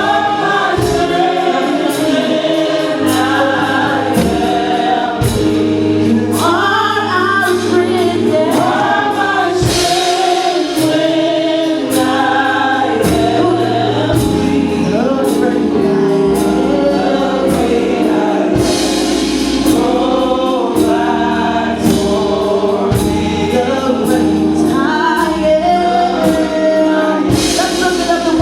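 Gospel worship song: a group of voices singing together over a full band, with bass and a steady drum beat.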